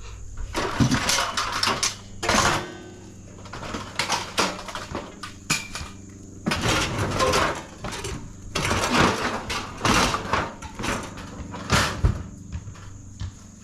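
Pieces of scrap metal clanking, banging and scraping as they are handled and loaded into a truck, in irregular knocks with one piece ringing briefly midway.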